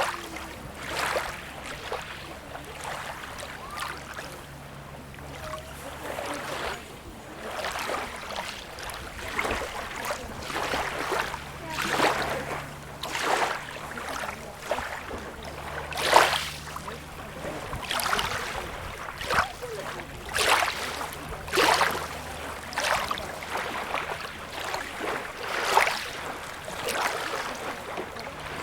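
Small waves lapping and splashing at the water's edge, a splash every second or so, some louder than others, over a faint steady low hum.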